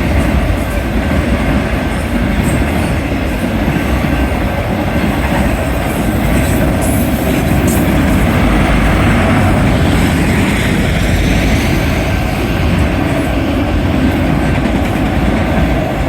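Union Pacific manifest freight train's cars rolling past close by: a loud, steady rumble of steel wheels on the rails.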